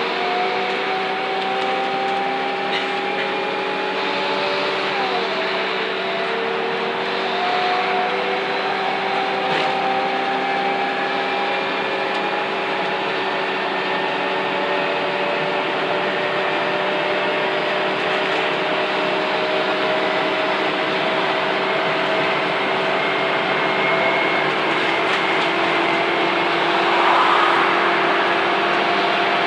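Scania N230UD double-decker bus engine thrashing under load on a climb, with a vacuum-cleaner-like 'Hoover' whine over a steady drone. The whine drops sharply at a gear change about five seconds in, then rises slowly as the bus gathers speed.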